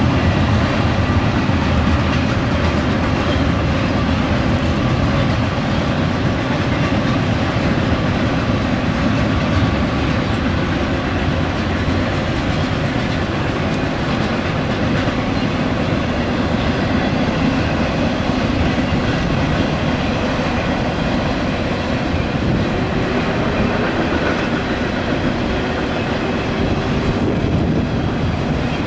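CSX double-stack intermodal freight cars rolling fast over a railroad bridge: a steady, loud rumble and clatter of steel wheels on the rails.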